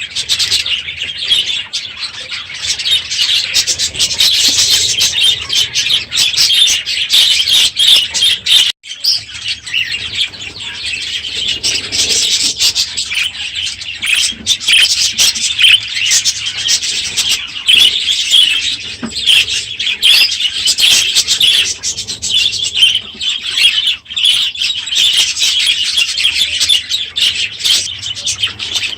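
A large flock of budgerigars chattering and chirping loudly together in a continuous, dense warble, with a brief break about nine seconds in.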